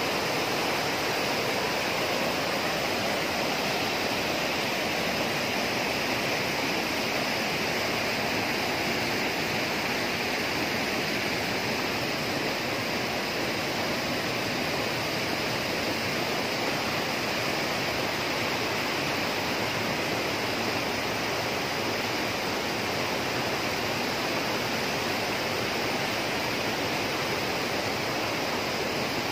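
Rushing water running steadily and evenly, the sound of a waterfall or fast stream.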